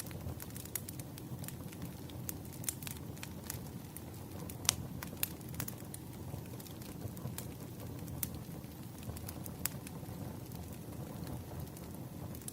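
Wood fire burning: a steady low rumble with irregular sharp crackles and pops, one louder pop about halfway through.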